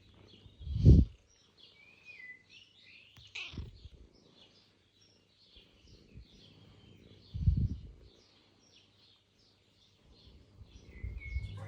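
Small birds chirping and twittering steadily, with an occasional short gliding call. Two brief, loud low thumps stand out, about a second in and again about seven and a half seconds in.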